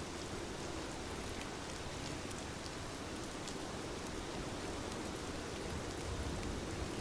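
Steady rain falling, with scattered individual drops pattering on a hard surface over a continuous hiss and a low rumble that swells slightly near the end.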